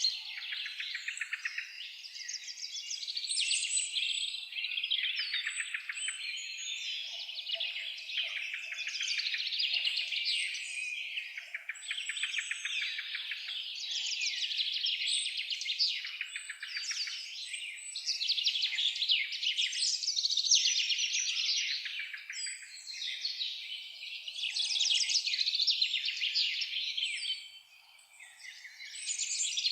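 Songbirds singing in a dense chorus: rapid trilling phrases a second or two long follow one another, with a brief lull near the end.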